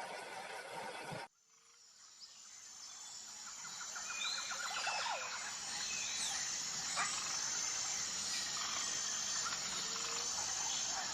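A dense noise cuts off suddenly about a second in; outdoor ambience then fades in, with wild birds chirping and trilling over a steady high hiss.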